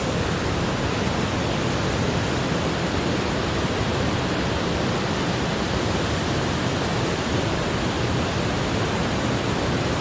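Steady, even rushing of water falling at Palouse Falls, heard close to the falls with no breaks.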